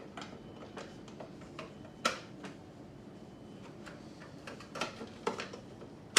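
Detachable non-stick cooking plates of a sandwich/waffle snack maker being handled and fitted into the housing: scattered sharp clicks and knocks, the loudest about two seconds in and another at the end.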